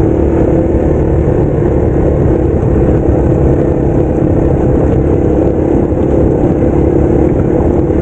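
Yamaha TW200's single-cylinder four-stroke engine running at a steady throttle while the bike is ridden along a trail, over a constant low rumble.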